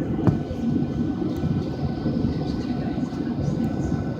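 Steady low rumble and hum inside a Boeing 737 airliner cabin on the ground, with a brief click about a third of a second in.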